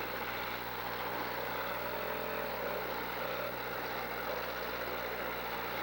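Car engines running steadily under a constant mixed din, with no single loud event.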